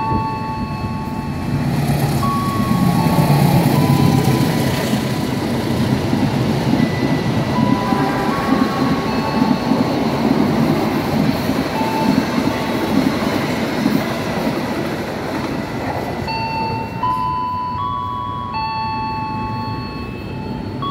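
Long-distance passenger train running through the station without stopping, passing close. Its rumble is loudest a few seconds in as the diesel locomotive goes by, then the coaches' wheels rumble steadily on the rails. A tune of held notes plays over it throughout.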